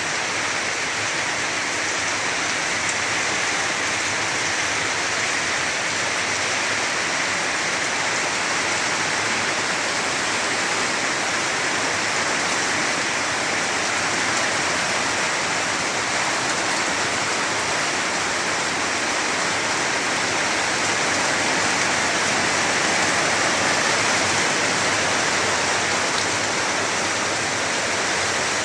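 Heavy rain falling: a steady, even hiss of water that holds without a break.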